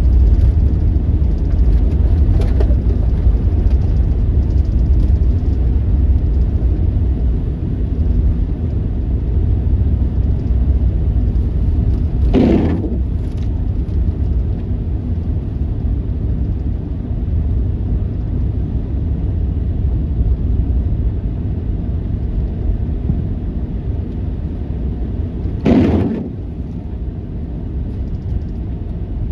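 Blizzard wind rumbling steadily on the microphone, with two brief stronger gusts about twelve and twenty-six seconds in.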